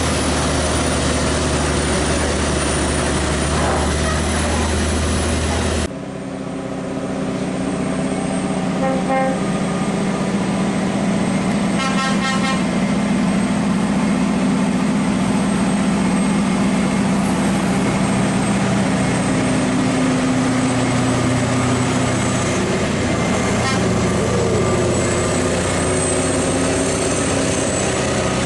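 Heavy truck engine running steadily under way, the sound changing abruptly about six seconds in, with a short horn toot about twelve seconds in.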